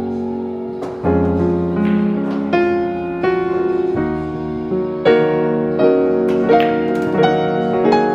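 Background piano music, with new notes and chords struck about every second.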